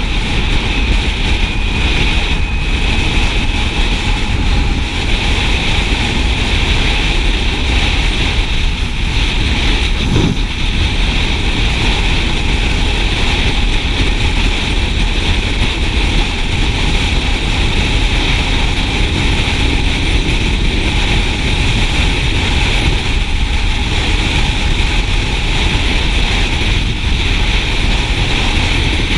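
Steady rush of wind and road noise on the microphone of a moving motorcycle, with the low end heavy with buffeting.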